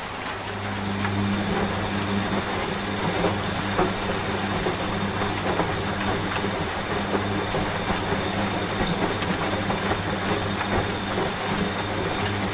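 Washing machine running with a steady low hum that comes in about a second in, over steady rain with scattered drips.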